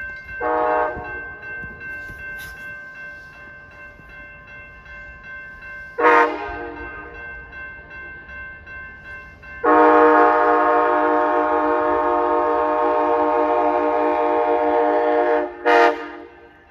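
Amtrak ALC-42 (Siemens Charger) locomotive's multi-chime air horn sounding as the train arrives. It gives a short blast, a second short blast about five seconds later, then one long blast of about six seconds and a final short one.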